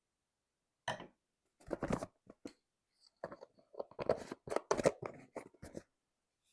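Crinkling and rustling handling sounds, a run of short crackly rustles that is busiest and loudest around the middle.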